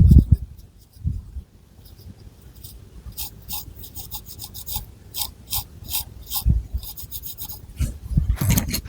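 Long fingernails scratching through thick hair on the scalp in many short, quick strokes, with a few soft low thumps.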